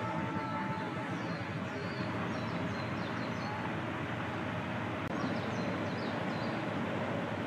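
Steady outdoor background hiss with small birds chirping faintly in two short bursts, about a second in and again past the middle.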